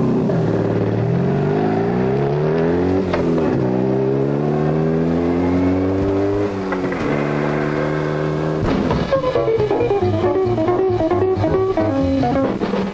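Motorcycle engine pulling away and accelerating through the gears: its pitch rises, drops at a gear change, rises again and then holds steady. Orchestral film music with a stepping melody comes in about nine seconds in.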